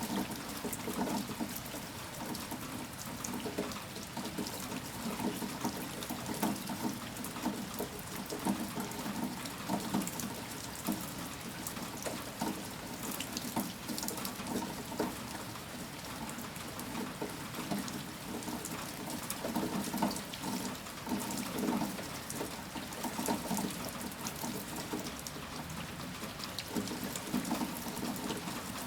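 Steady rain falling, many close drop strikes ticking over an even hiss of water, swelling and easing a little at times.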